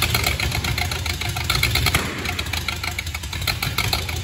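Ford flathead V8 engine running, a steady low rumble with a fast, even ticking clatter over it.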